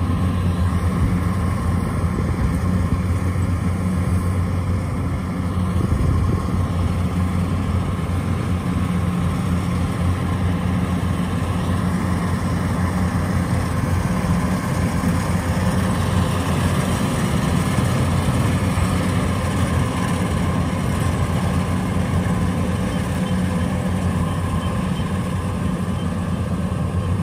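Diesel engine of a rice combine harvester running at a steady speed, a constant low hum with no change in pace.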